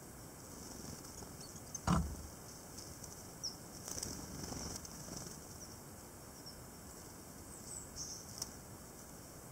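Several short, faint, high call notes from great tits and a brief flutter of wings as a bird takes off, about four seconds in. A single thump about two seconds in is the loudest sound.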